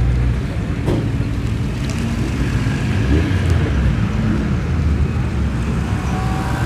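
Car engine running at low revs as a car moves off slowly, its low note wavering up and down, with a short sharp click about a second in.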